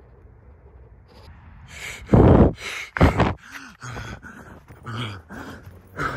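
A person's voice making loud, harsh animal-like growls in several bursts, starting about two seconds in, mixed with rough rubbing noise as the camera is whipped around.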